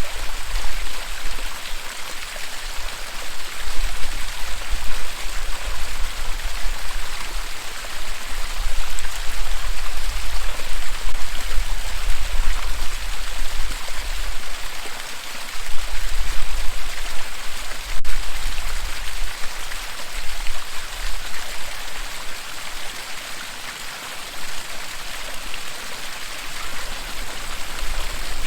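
Waterfall: a steady, dense rush of falling water, with a deep low rumble that swells and fades every few seconds.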